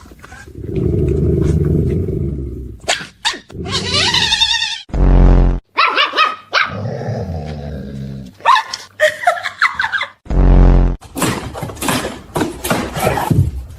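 A chihuahua and a rottweiler growling and barking at each other: long low growls, two deep barks, and high-pitched whines and yaps, ending in a quick run of barks.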